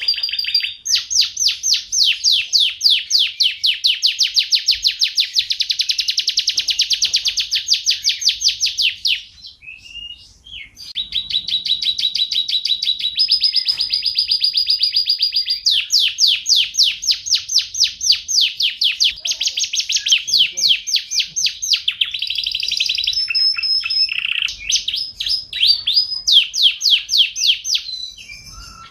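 Domestic canary singing: long, fast rolling trills of high notes, broken by a short pause about a third of the way in, with a few held whistled notes mixed between the trills.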